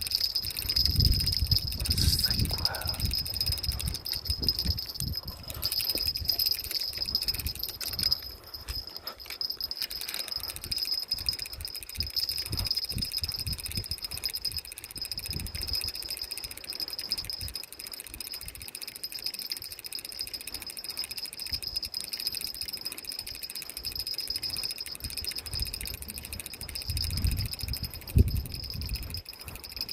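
Night insects, crickets, chirring in a steady high-pitched drone. Low thuds and rumbles come and go, strongest in the first few seconds and again near the end.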